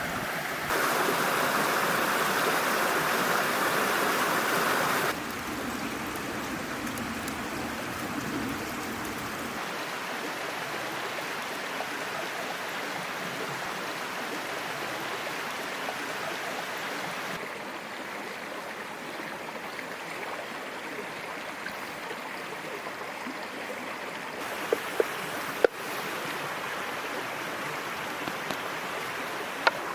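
Small mountain stream flowing, a steady rush of water whose loudness and tone change abruptly several times, louder for the first few seconds. A few sharp clicks about 25 seconds in.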